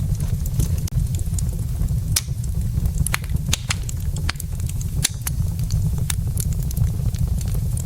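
Burning wood logs in a fireplace crackling, with irregular sharp pops and snaps over a steady low rumble of the flames.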